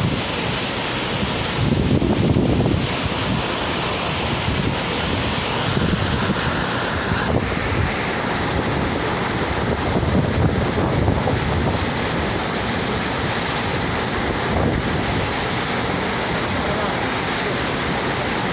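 Steady rush of water from a cruise ship's FlowRider surf simulator, with wind buffeting the microphone in gusts.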